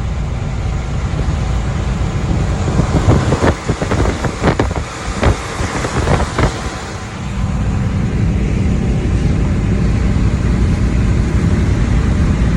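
Steady engine and road rumble inside a semi-truck cab, driving through a snowstorm. About three seconds in comes a run of sharp knocks and clatters, around two a second, for a few seconds, while the rumble briefly dips.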